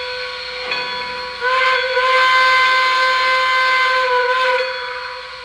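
Lionel O gauge 4-6-0 steam locomotive's onboard sound system blowing a quilling steam whistle over a steady hiss of steam. The whistle sounds softly at first, swells loud for about three seconds in the middle with its pitch bending as it opens and closes, then drops back.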